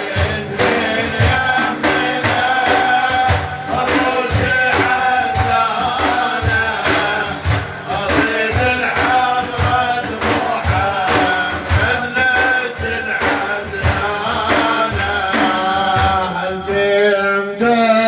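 Sufi dhikr music: frame drums beating a steady rhythm under a held, sung melody.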